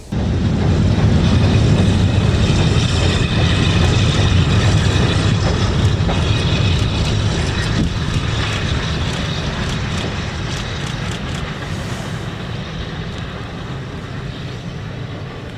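Steam-hauled train passing: a loud low rumble that sets in suddenly, with a run of light clicks around the middle, then slowly fades.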